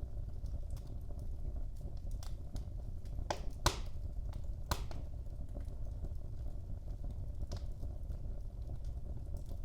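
Wood fire burning in a fireplace: a steady low rumble of flames with scattered crackles and snaps, and two sharper pops a little before the middle, about a second apart.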